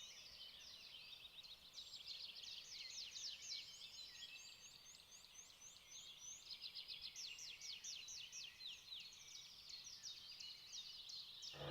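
Faint birdsong from several small birds at once: fast runs of short, high chirps, each dropping in pitch, overlapping throughout.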